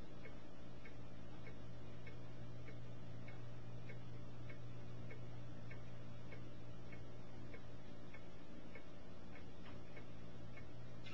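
A clock ticking steadily, about two ticks a second, over a low steady hum.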